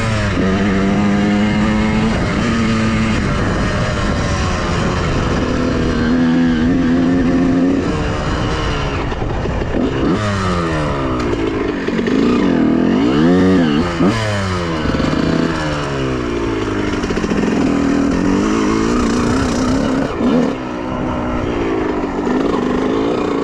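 Honda CR125R's 125 cc two-stroke single-cylinder engine under way on the move, its pitch rising and falling again and again as the throttle is opened and closed.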